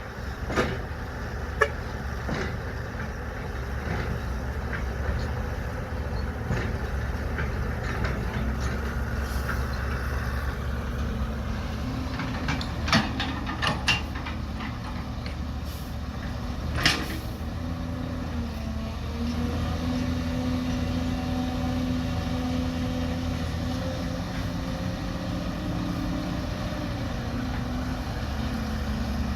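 Excavator working with its diesel engine running steadily under load, joined by a higher steady whine from about twelve seconds in. Several sharp clanks stand out, the loudest near the middle.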